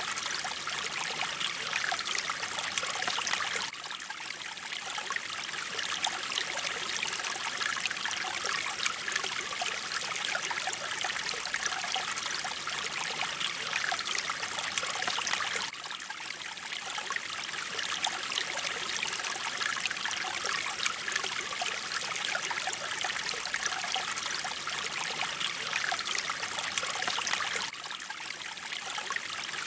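Mountain stream water flowing and splashing steadily, an even rushing sound strongest in the upper range. The level dips briefly about every twelve seconds, as in a looped recording.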